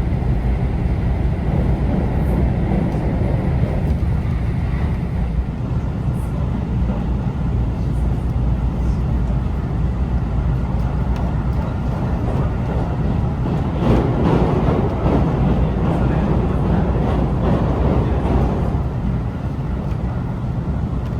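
Steady low rumble of a train running, with a louder, busier stretch about two-thirds of the way through.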